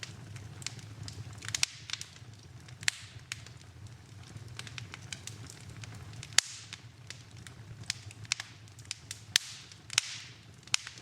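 Wood fire burning in a fireplace, crackling with irregular sharp pops, the loudest about six seconds in, and brief hissing flares, over a steady low hum.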